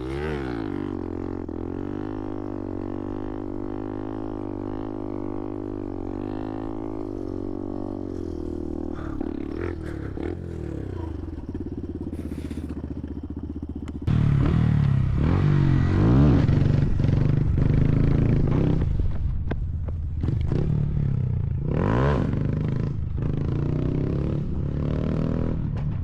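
Motorcycle engine running at a steady cruising pitch. About fourteen seconds in the sound jumps louder and the engine revs up and falls back several times.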